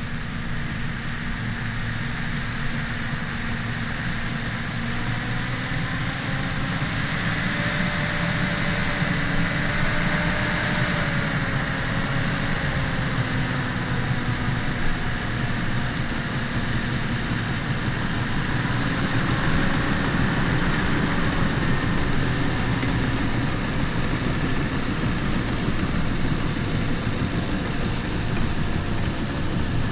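Bulldozer's diesel engine running steadily under load, its pitch drifting up and down a little, and its level swelling slightly twice.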